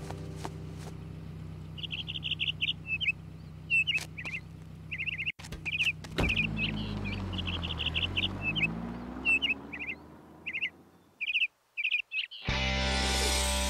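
Cartoon bluebird chirping in short, quick trills, repeated many times over a soft sustained background. Loud guitar music comes in near the end.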